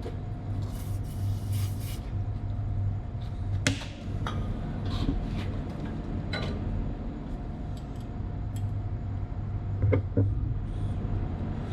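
Scattered sharp metal clicks and knocks of hand tools working on a 7.5 kW motor's mounting, about eight in all, with the loudest near the middle and near the end. Under them runs a steady low machinery hum.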